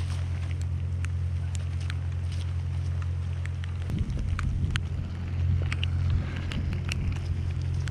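Wind buffeting the microphone as a steady low rumble that swells a little about halfway through, with scattered light ticks over it.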